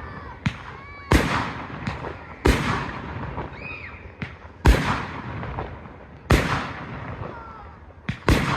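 Display fireworks bursting: five loud booms one to two seconds apart, each trailing off in a rumble, with smaller cracks between them.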